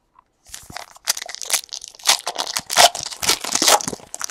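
Plastic card-pack wrapper crinkling and tearing as a pack is opened, a dense run of crackles lasting about three and a half seconds.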